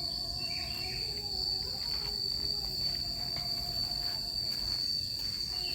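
Insects in tropical forest giving a steady, high-pitched drone without a break. A couple of short falling chirps come about half a second in and again at the very end.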